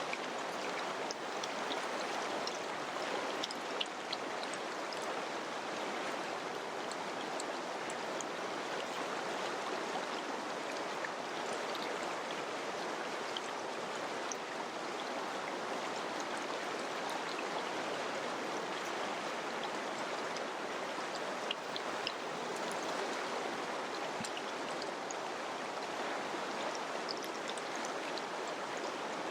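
Mountain river flowing over rocks: a steady rush of water with small splashes and drips scattered through it.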